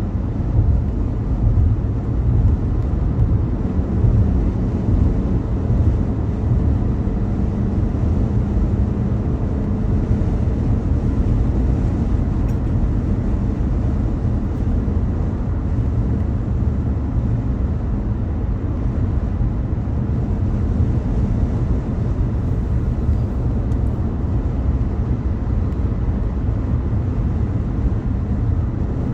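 Car driving along at steady speed: a constant low rumble of road and engine noise, with a faint steady engine hum that fades out about a third of the way through.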